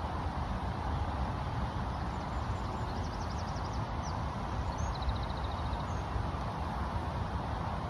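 Steady low rumbling outdoor noise, with a small songbird singing two short, rapid high trills about three and five seconds in, plus a few single chirps.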